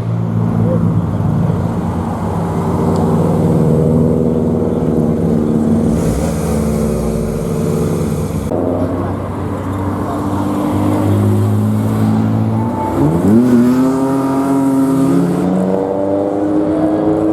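Modified car engines running, with steady engine notes. About thirteen seconds in, one engine revs up sharply and holds the higher note.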